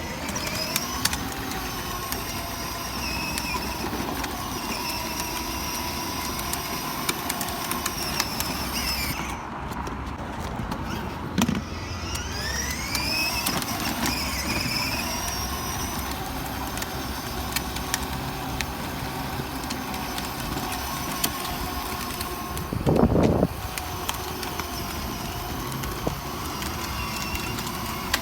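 A car running steadily with a constant hum and faint whine, and one brief louder sound late on.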